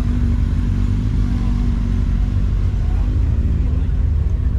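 A car engine running steadily: a low, even drone that holds at one pitch, with no revving.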